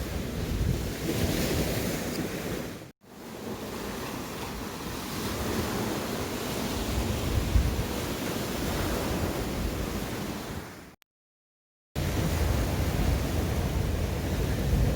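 Sea surf washing on the shore with wind buffeting the microphone. The sound drops out briefly about three seconds in, and again for about a second near the end, at edit cuts.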